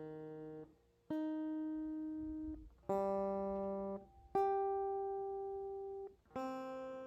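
Strings of a 27-inch baritone electric guitar with an Evertune bridge plucked one note at a time. Each note rings for a second or two and is then muted. Four new notes sound, plus one already ringing at the start, as the intonation is checked during a setup.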